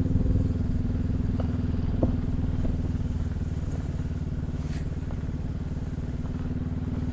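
Adventure motorcycle engine running steadily while riding, with a few faint clicks.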